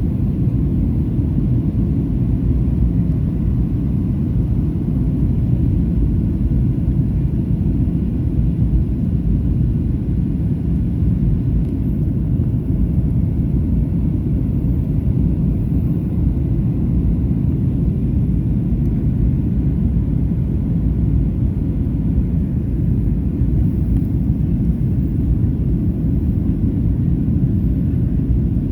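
Steady low cabin rumble inside a Boeing 737-800 in flight: engine and airflow noise heard from a window seat, with no change in pitch or level.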